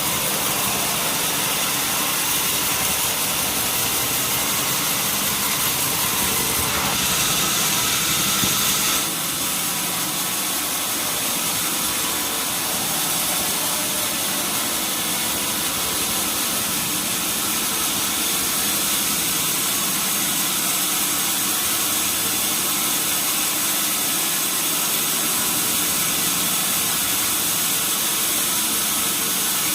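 Sawmill machinery running steadily, an engine-like drone with a brief stretch of brighter high-pitched noise about seven seconds in.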